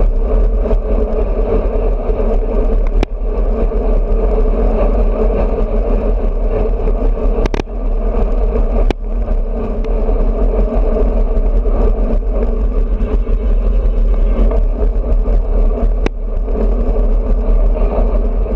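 Wind rushing over an action camera's microphone on a moving road bike, a heavy steady rumble, with four sharp knocks spread through it.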